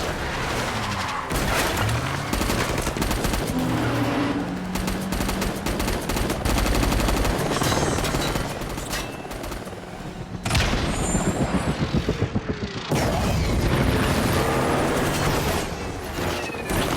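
Action film soundtrack: repeated automatic gunfire with booms and vehicle noise over a dramatic music score, with a rapid pulsing burst about two-thirds of the way in.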